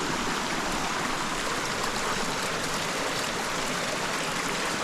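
Running water from a piped mountain spring and its creek: a steady, even rush.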